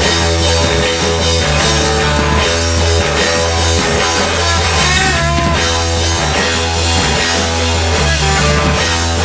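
Rock band playing: electric guitar chords over a bass line and drum kit, loud and continuous.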